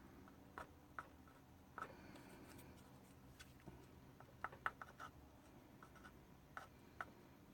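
Near silence with faint, scattered small clicks and taps from objects being handled, a few in quick succession about four and a half to five seconds in.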